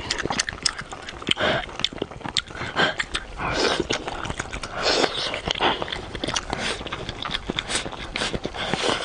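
Close-miked eating of pork trotter: wet chewing with rapid mouth clicks and lip-smacking, and a few longer sucking or slurping smears.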